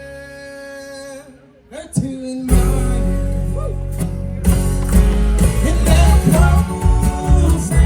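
Live country band: a held chord dies away into a short near-pause, then the full band with bass and drums kicks back in about two and a half seconds in, with singing over it.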